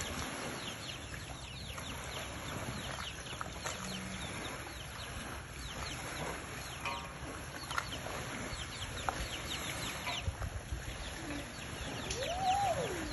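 Birds chirping and calling: many short falling chirps throughout, a quick run of pulsed notes about halfway, and one drawn-out call that rises and then falls near the end.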